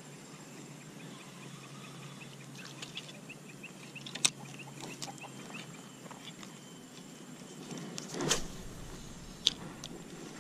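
A bird calls in a quick run of short high notes for a few seconds. Sharp clicks and one brief thump come from handling an ultralight spinning rod and reel.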